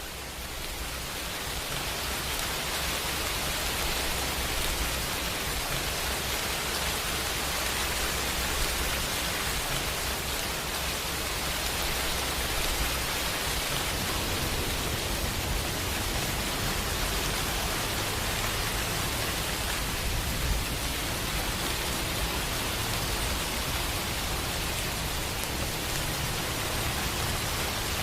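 Steady, dense rainfall that swells up over the first couple of seconds and then holds even, with a low rumble underneath.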